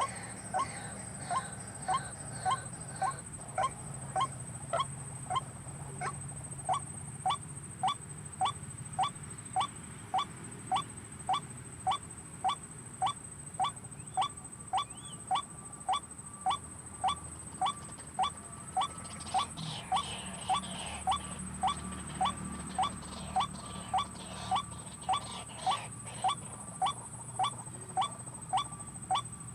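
White-breasted waterhen (ruak-ruak) calling: short, rising notes repeated steadily, about three every two seconds.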